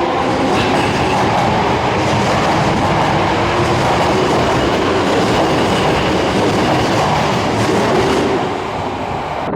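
Osaka Metro Series 66 subway train running along the underground platform: a loud, steady rumble of steel wheels on the rails that eases slightly near the end.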